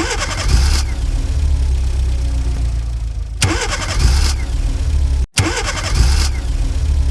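Engine start-up sound effect played over and over, about every three seconds: each time a short hissy starting burst, then a low steady engine idle. It cuts out sharply for a moment about five seconds in.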